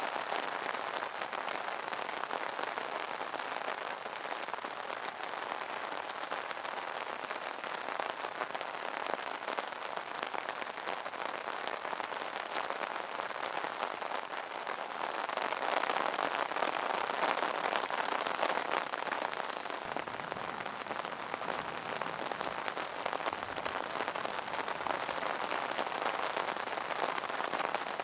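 Steady rain pattering on an umbrella's fabric canopy, a dense even patter of drops that swells slightly about halfway through.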